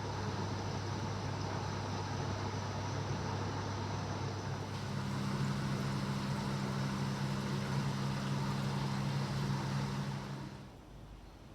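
Steady machine hum under a rushing noise. A second, deeper set of hum tones joins about five seconds in, and everything drops away suddenly near the end.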